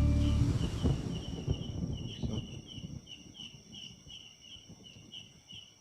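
Night insects chirping in a steady pulse, about two to three chirps a second, over a continuous high-pitched whine. Under them, an irregular low crackling rustle fades out over the first two to three seconds.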